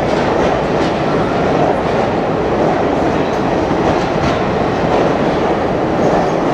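Circus train's steel passenger cars rolling past in an underground station: a steady rumble of wheels on rail with faint wheel clicks.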